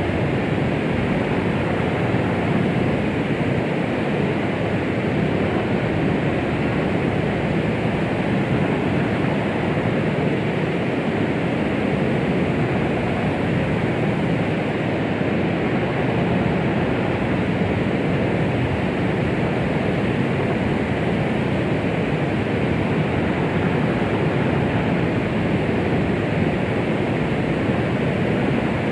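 Continuous white noise, a steady, even rushing hiss weighted toward the low and middle range with no rhythm or change, played as a womb-like sound to calm a baby.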